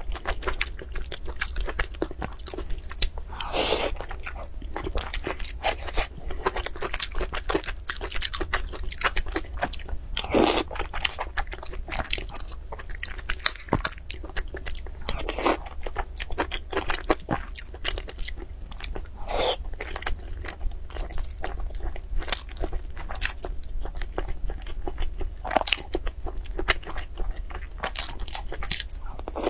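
Close-miked chewing of soft food, dense with small wet mouth clicks and a louder smack every few seconds, with the light clink of a metal spoon in a glass dish. A low steady hum sits underneath.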